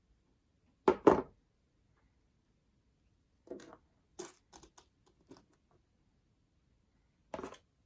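Short clicks and rustles from handling small sterling silver jump rings during chainmaille work: two loud ones close together about a second in, a scatter of smaller clicks in the middle, and one more near the end.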